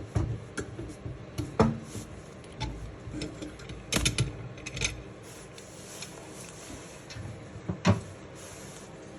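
Light clicks and knocks of small metal parts and hand tools being handled while valve springs are fitted to a Honda CB350 cylinder head. Three sharper knocks stand out, about one and a half, four and eight seconds in, and it grows quieter after about five seconds.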